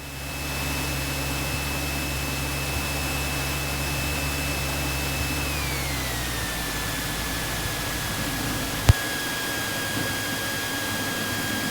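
Steady rushing noise of a light aircraft cockpit with a high whine that drops in pitch about six seconds in, as the low hum underneath fades. A single sharp click comes about nine seconds in, after which the deepest hum is gone.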